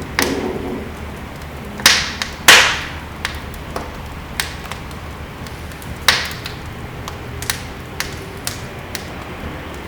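Wood fire in a fireplace crackling, with scattered small ticks over a steady low rumble and three loud pops: two close together about two seconds in, and one about six seconds in.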